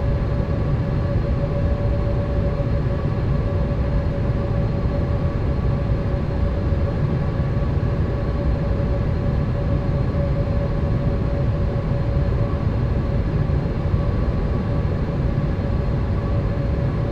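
Steady cabin noise of a Boeing 787 airliner: a low rumble and rushing air with a constant hum over it, unchanging throughout.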